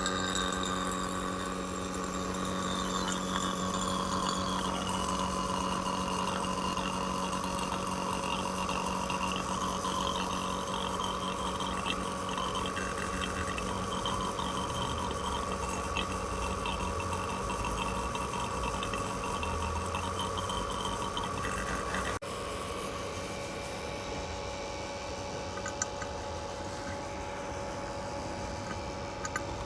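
A motor-driven machine running steadily, with a low hum and a whine that sinks slightly in pitch over the first few seconds. The sound drops abruptly to a quieter, steadier running about three quarters of the way through.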